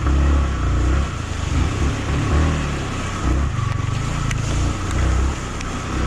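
Yamaha MT-15's single-cylinder engine running under way, its low note swelling and dipping with the throttle, over a steady rush of wind and road noise.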